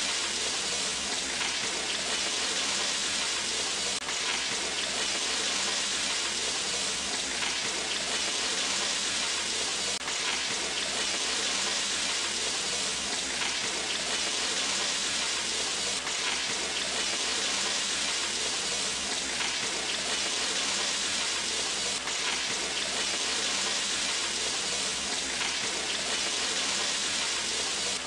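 Chicken and vegetables stir-frying in oil in a frying pan, a steady sizzle.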